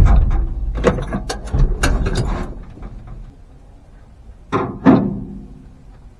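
Classic truck engine dying out after a start attempt that did not catch: uneven pops and knocks fade away over about two seconds. Two sharp knocks follow close together, about five seconds in.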